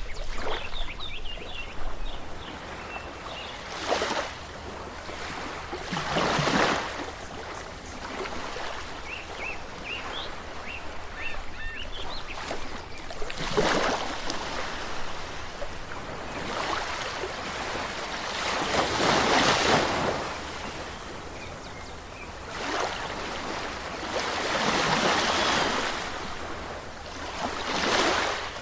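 Sea waves washing in, each surge swelling and fading every few seconds over a steady hiss of surf, with faint high chirps in the first half.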